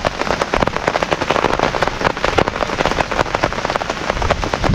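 Heavy rain pouring down, big drops striking close by in a dense, crackling patter.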